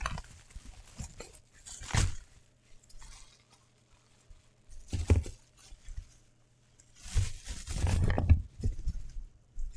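Packaging being handled and torn open: intermittent crinkling, tearing and knocks, in a few separate bursts with quiet gaps between.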